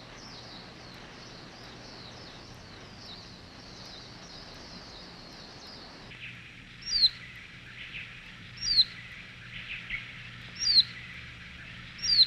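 Forest birds calling. For about six seconds there is a fast, steady run of thin, high descending chirps. Then, after an abrupt change, loud sharp downward-sliding call notes repeat roughly every two seconds over a steady high chatter.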